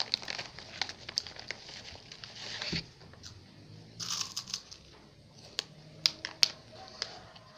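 Eating and food-handling noises: crinkling and tearing with scattered sharp clicks and crunches, and two short rustling bursts, the second about four seconds in.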